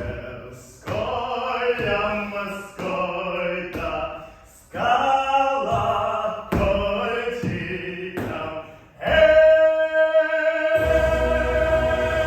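Voices singing together in short sung phrases with held notes, ending on one long held note about nine seconds in, with a fuller noisy accompaniment coming in under it.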